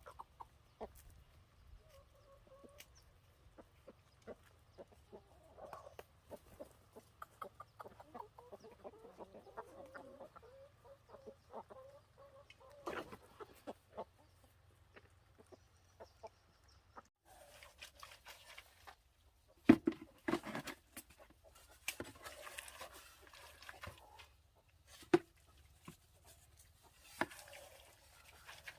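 Chickens clucking, with scattered sharp knocks and rustling; the loudest knocks come a little past the middle.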